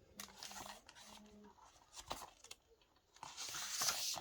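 Paper rustling as a book is handled and a page is turned: faint rustling, a few light clicks about two seconds in, then a louder swish of the page near the end.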